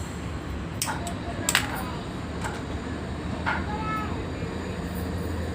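A steady low hum with five sharp clicks or knocks spaced about a second apart.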